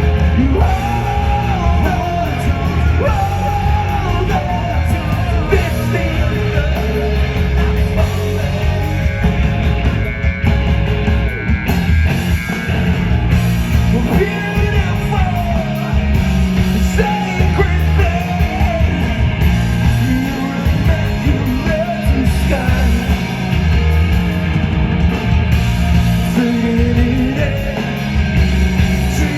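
Live rock band playing loudly, with a singer's voice over electric guitars.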